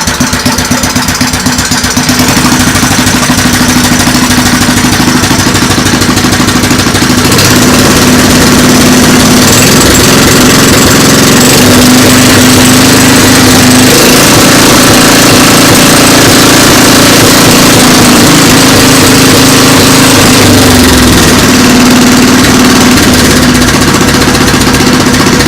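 Kohler Command 8 horsepower single-cylinder, air-cooled horizontal-shaft engine with a cast iron block, running. It picks up speed about two seconds in, then runs steadily and evenly.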